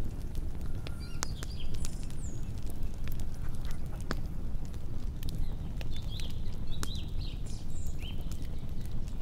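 Small birds chirping in short calls with quick downward hooks, several clustered about a second in and again near the end. Scattered sharp clicks and a steady low rumble run underneath.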